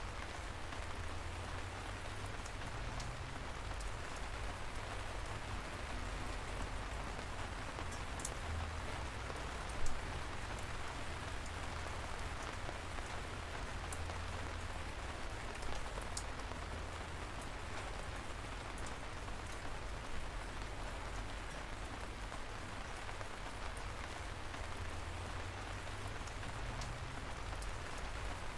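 Light rain falling steadily: an even hiss with scattered individual drops ticking, one sharper drop about ten seconds in, over a low rumble.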